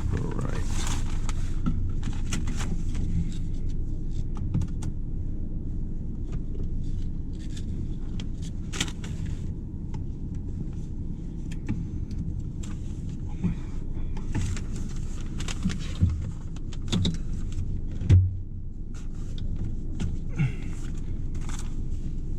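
BMW 1 Series car engine running with a steady low rumble, with scattered clicks and a few knocks, the loudest about 16 and 18 seconds in.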